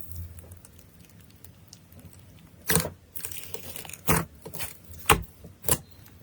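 Slime being squeezed and pressed by hand: faint clicks at first, then from about two and a half seconds in, four sharp pops with a short crackle between them.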